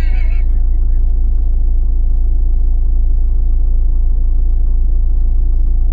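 Vehicle engine idling: a steady low rumble that holds even with no change in pitch or level.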